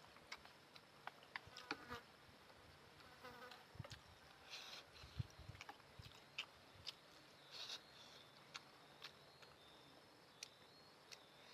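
Quiet close-up noodle eating: faint chewing with scattered sharp little wet mouth clicks and smacks, and a few brief louder smacking sounds.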